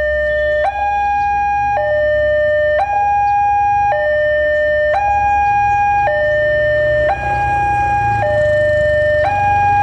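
Railroad level-crossing warning alarm sounding: an electronic two-tone signal alternating steadily between a lower and a higher tone, each held about a second, warning that a train is approaching.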